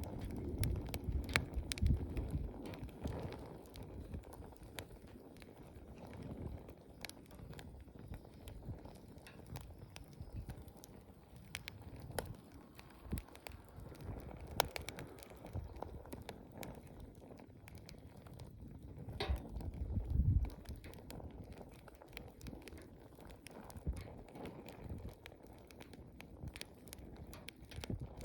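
Wood campfire burning, with irregular sharp crackles and pops over a low, uneven rush of flame, which swells briefly about twenty seconds in.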